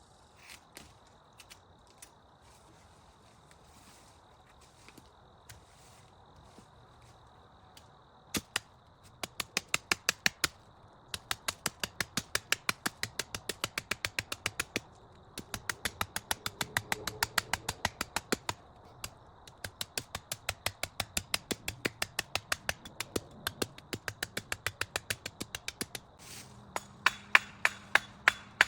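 Rapid, evenly spaced sharp knocks, about four a second, coming in runs with short pauses; they start about eight seconds in. Before that only a faint steady high-pitched tone.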